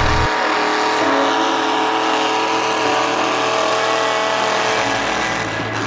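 Mega truck engine held at high revs, a steady, loud run that drops in pitch near the end as it comes off the throttle.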